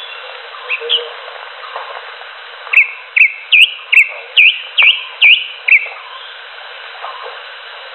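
Cucak hijau (green leafbird) calling: a couple of soft notes, then a quick run of about eight loud, short notes, each hooking upward in pitch, about three a second.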